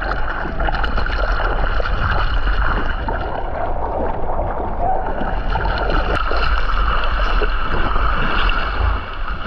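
Water rushing and splashing around a kayak under way on choppy water, with wind rumbling on the microphone.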